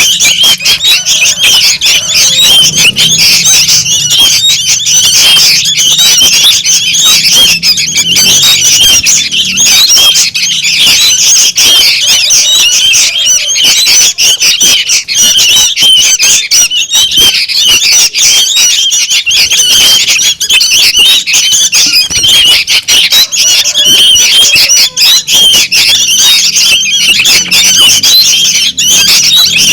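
Young sooty-headed bulbuls (kutilang) calling noisily, a dense, unbroken stream of high chattering calls from many chicks at once; a lure (pikat) recording of bulbul chicks, the kind played to draw in wild bulbuls.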